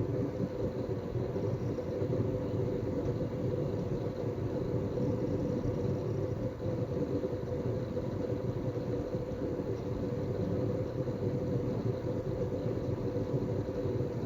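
Synology DS418play NAS running: a steady, low noise from the unit as its drives work, with no breaks. This is the noise that the title calls its 'szörcsög' (a gurgling, grinding sound).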